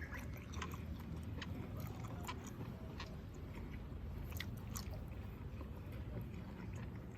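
A person chewing a full mouthful of cooked squid, with small scattered clicks from the mouth.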